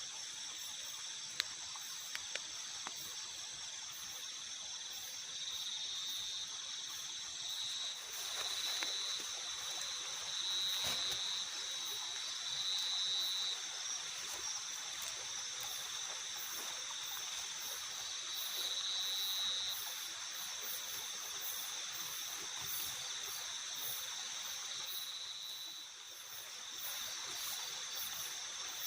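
Chorus of night insects: a steady, high-pitched shrill with a pulsing trill that fades in and out several times. A couple of faint ticks come about two seconds in.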